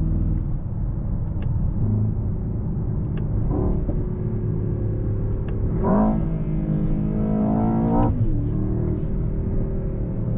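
Mercedes-AMG S63's twin-turbo 4.0-litre V8 pulling under acceleration: a steady drone, a short rise in pitch about three and a half seconds in, then a longer climb in pitch from about six seconds that drops back suddenly just after eight seconds.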